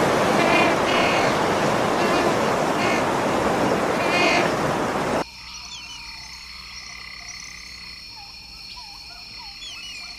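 Adélie penguin colony calling: a dense, loud chatter of many birds with repeated harsh calls standing out. About five seconds in it cuts to a much quieter scene of a steady high-pitched buzz with small birds chirping.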